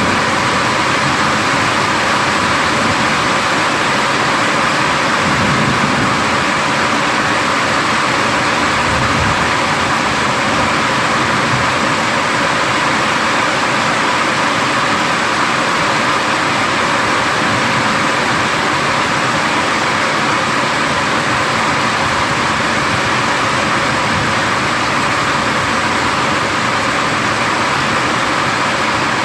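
Heavy rain pouring steadily, with faint low thunder rumbles about five seconds in and again near nine seconds.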